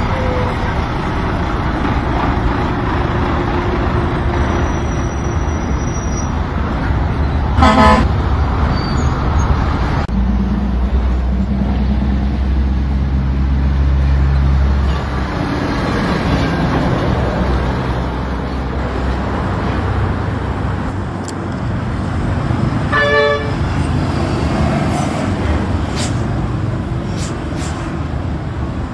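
Truck engine and road noise running steadily, with two short horn toots: one about eight seconds in and another about twenty-three seconds in.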